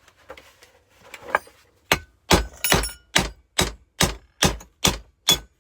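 Nine hammer blows on metal, about two and a half a second, each with a short ring, knocking a pressed-on part off a car compressor's shaft.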